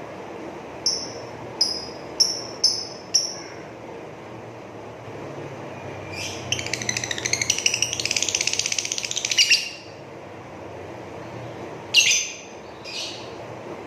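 Blue-ink (biru mangsi) lovebird giving five short sharp chirps, then a fast rattling chatter lasting about three seconds, the long 'ngrekek' song that keepers listen for, then two more calls near the end.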